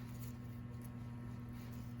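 Low steady electrical hum with a few faint light clicks and taps over it.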